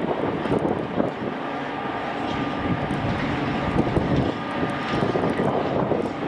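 A train running by: a loud, steady mechanical drone from the locomotive, with a faint steady whine over it.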